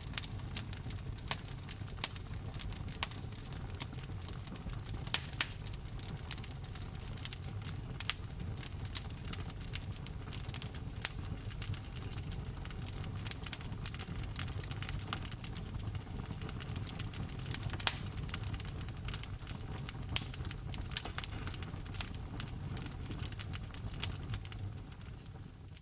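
Wood fire crackling: frequent sharp pops and snaps over a low, steady rumble of burning, fading out at the very end.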